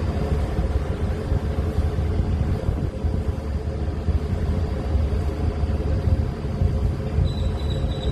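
Deep, crackling rumble of a rocket launch heard from several miles away, steady throughout.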